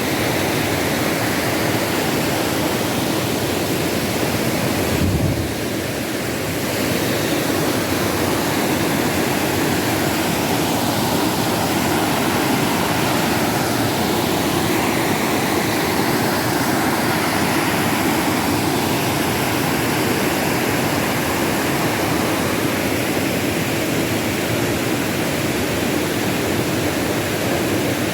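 Steady rushing of flowing water, dipping briefly about five seconds in.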